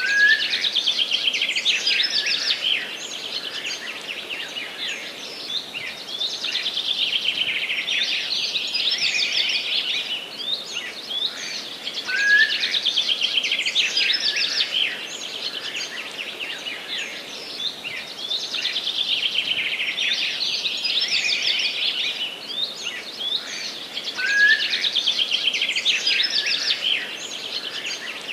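Forest songbirds singing in a dense chorus of rapid, high-pitched trills and chirps that swell and ease about every six seconds, over a faint hiss.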